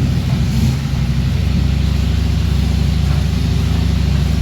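Kawasaki Ninja ZX-10R's inline-four engine idling steadily.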